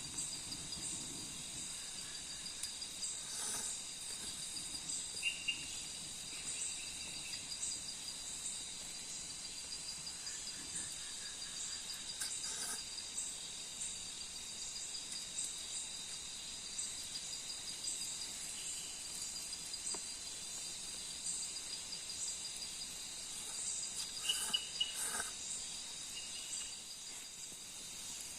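Night insect chorus: a steady high trill with faster, higher chirping above it, joined by a few short calls from another animal and the odd brief click.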